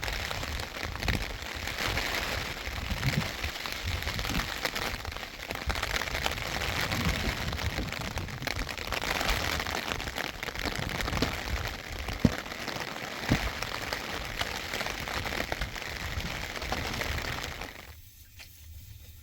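Steady rain falling, a dense even hiss with scattered drop taps and small cracks; it cuts off abruptly near the end.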